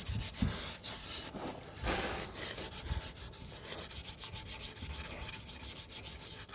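Scrunched tin foil scrubbed back and forth over a chrome exhaust tip with metal polish, a steady scratchy rubbing of quick repeated strokes as black soot is worked off.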